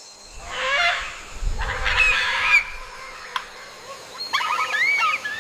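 Birds calling: three bouts of harsh, honking calls that bend in pitch.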